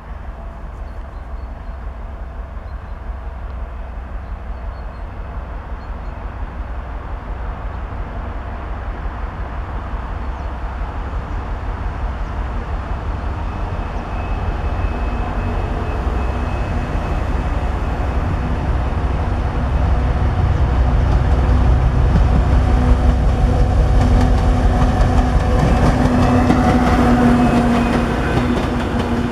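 Diesel train approaching and running past, growing steadily louder over a deep rumble with a steady engine hum, with wheels clicking over rail joints near its loudest.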